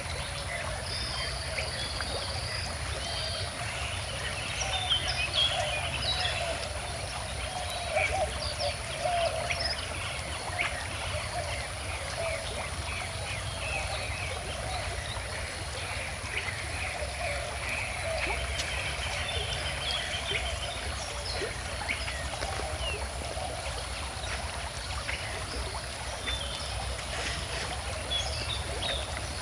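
Calm river water flowing and burbling steadily, with birds chirping here and there over it.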